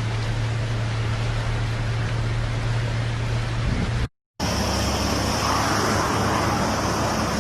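A car's steady running noise, a low engine hum under a rushing of road or water noise. About four seconds in it cuts off briefly and gives way to a similar rushing noise with a steady high whine over it.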